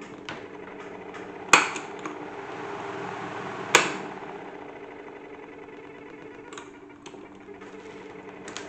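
Salad-spinner toy washing machine spinning with a steady hum, loose objects inside the drum knocking and clicking against it, with two loud knocks in the first four seconds.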